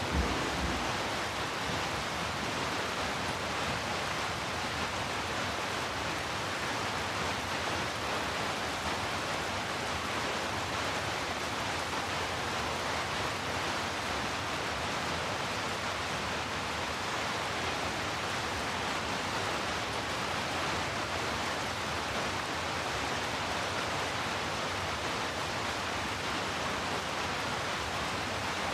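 Steady heavy rain, an even dense hiss with no separate drops standing out. The tail of a low thunder rumble dies away at the very start.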